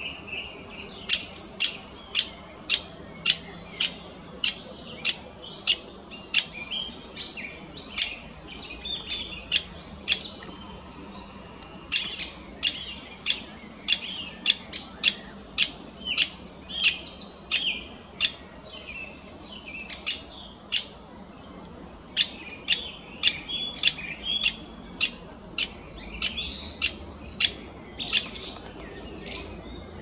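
A run of sharp clicks, about two a second with a few short pauses, mixed with short bird chirps.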